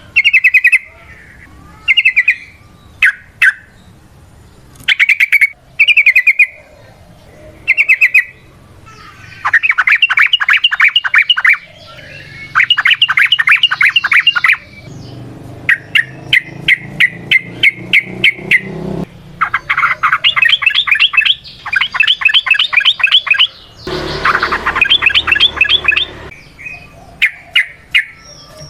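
Yellow-vented bulbul (trucukan) singing: a few short chirps at first, then from about ten seconds in a run of long, fast rattling trills, each lasting one to three seconds with brief gaps between. This is the long trilled 'ropel' song used as a lure to set other trucukan singing.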